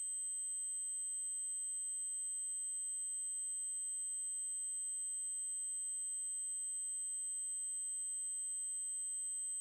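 Synthesized 8192 Hz triangle-wave test tone: a steady, very high-pitched continuous whistle at unchanging level, with a faint blip about halfway through.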